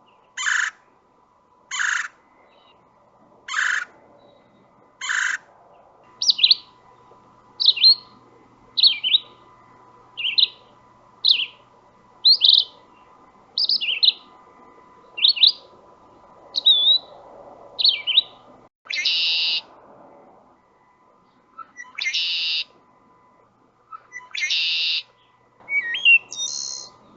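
Recorded bird calls: four short harsh calls about a second and a half apart, then a quick series of short sweeping whistled notes, then three longer harsh calls near the end.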